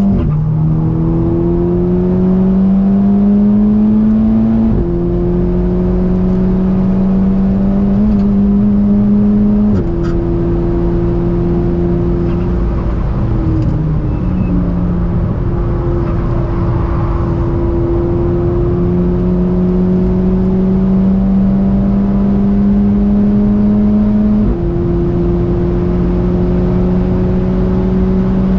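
VW Golf 6 R's turbocharged four-cylinder engine pulling hard under load, its pitch climbing slowly and dropping sharply at upshifts about five, ten and twenty-five seconds in. It eases off briefly in the middle before pulling again, with tyre and road noise underneath.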